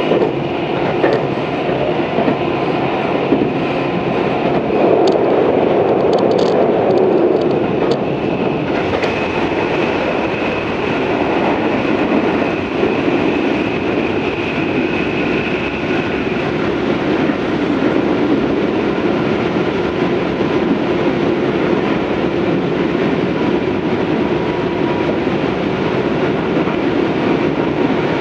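Interior running noise of a Tobu 634 series electric train under way: a steady rumble of wheels on rail with a faint steady whine, a little louder with a few sharp clicks about five to eight seconds in.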